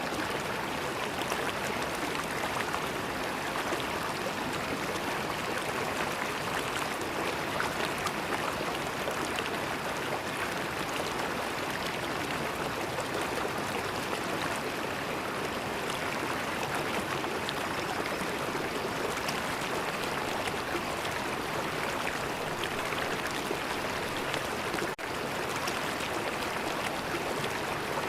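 River water flowing and gurgling in a steady, even rush, with a momentary dropout near the end.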